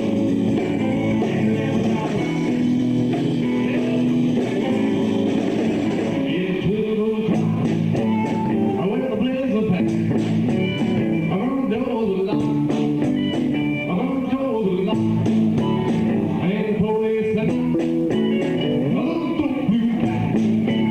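Live rock band playing: electric guitars, bass and drums, with a lead line of bending, wavering notes from about six seconds in.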